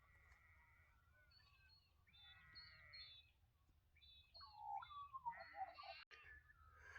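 Faint birdsong: a few birds warbling and chirping, getting busier and louder in the last few seconds.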